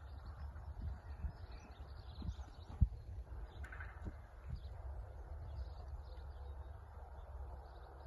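Small birds chirping over a steady low rumble, with a few soft thuds, the loudest about three seconds in.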